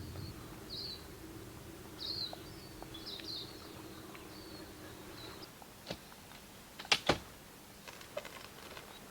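Small birds chirping in short high calls over a faint steady hum that stops about five and a half seconds in, then a few sharp clicks and knocks, the loudest a quick double knock about seven seconds in.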